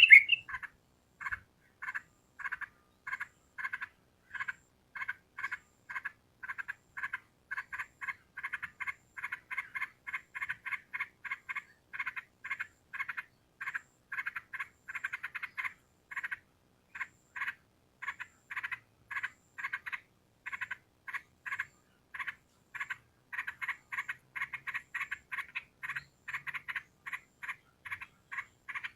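A short animal call repeated steadily, about two to three times a second, with a brief pause about sixteen seconds in.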